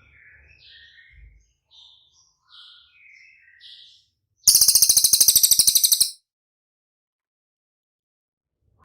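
Small songbird giving a series of short high chirps, then a loud, rapid buzzing rattle lasting about a second and a half, after which it stops abruptly.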